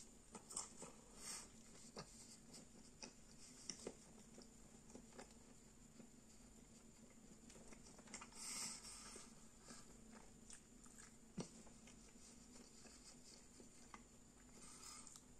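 Faint chewing of a mouthful of corn dog: soft, scattered mouth clicks and smacks over quiet room tone, with a short breathy hiss about eight seconds in.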